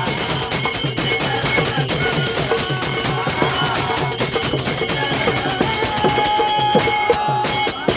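Devotional bhajan music from a group: fast, steady beating of a hand drum with small hand cymbals ringing continuously over it. A long held note enters about five and a half seconds in.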